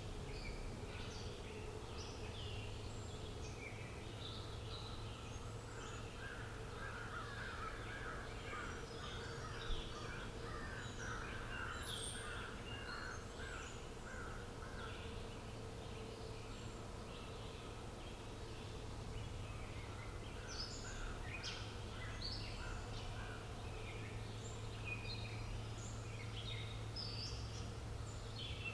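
Several wild birds chirping and singing over a steady low hum, with a fast run of repeated lower notes from about six to fourteen seconds in. One sharp tick comes about ten seconds in.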